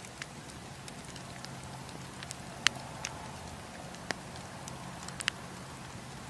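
Wood campfire burning: a steady hiss under scattered sharp crackles and pops, about eight in all, the loudest a little under three seconds in.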